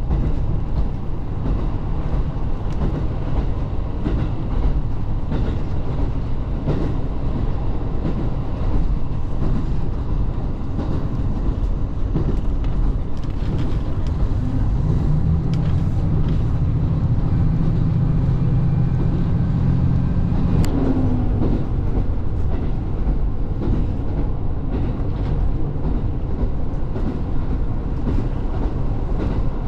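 A diesel train running on the rails, a steady rumble with wheel noise. Its low engine hum grows stronger for about five seconds past the middle, then a single sharp click comes.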